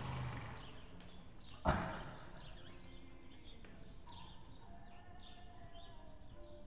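Small birds chirping over and over in short falling notes, with one sharp knock a little under two seconds in.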